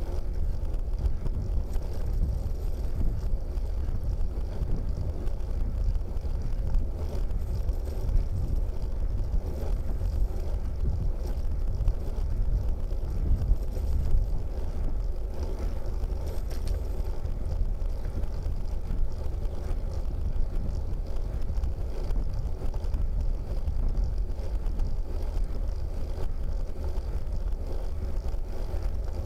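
Wind rumbling on the microphone, a steady low buffeting, with faint high tones coming and going.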